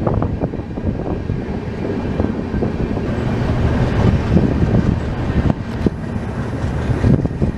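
Passenger train running on the rails, heard from inside a coach at an open window: a steady low rumble with irregular sharp wheel clicks over rail joints and points.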